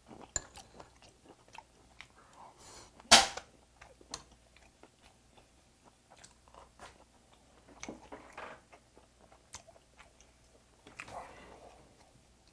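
A man chewing and smacking his lips close to the microphone as he eats, with small clicks of chopsticks and spoon. One sharp, much louder click about three seconds in.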